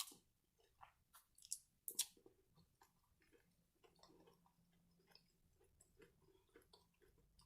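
Faint close-miked chewing: wet mouth clicks and smacks of a person eating, with a few sharper clicks near the start and about two seconds in.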